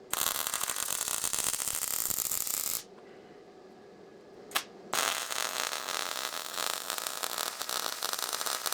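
MIG welder laying two weld runs, a steady crackling hiss of about three and four seconds, separated by a short pause with a single click.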